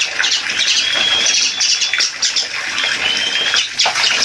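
Asian pied starling squawking and chirping, with several held whistled notes, while it is held and bathed, with water splashing underneath.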